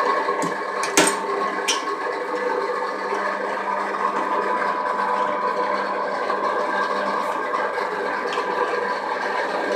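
Electric pipe cutting and threading machine running steadily on a half-inch steel pipe, a mechanical hum with a rattle of gearing. Sharp metallic clicks come about a second in and again shortly after.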